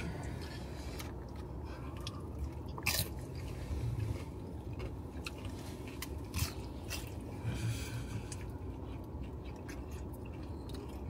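Chewing and crunching of loaded nacho chips, with scattered short crunches over a steady low hum.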